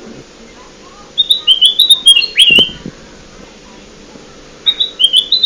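Kutilang emas bulbul song used as a bird lure: two phrases of quick, high chirping notes, the first about a second in and the second starting near the end, over a faint steady hum.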